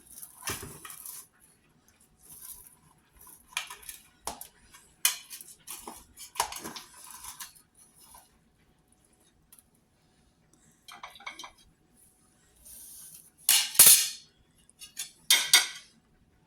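Metal utensil clinking and scraping against dishes in a series of irregular short strokes, as a piece of freshly baked cherry clafoutis is cut and served. The two loudest, longer scrapes come near the end.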